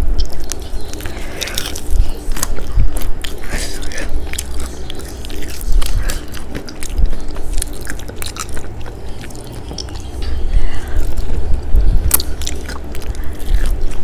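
A person chewing and biting into McDonald's fried chicken, close to the microphone, with irregular crunchy clicks from the breaded coating.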